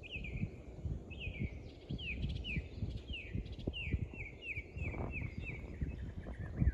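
A bird singing a series of short, down-slurred whistled notes that come faster and faster, speeding up into a quick run. Low thumps and rumble sound underneath throughout.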